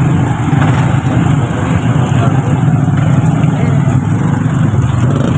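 Truck engine running steadily with a constant deep drone.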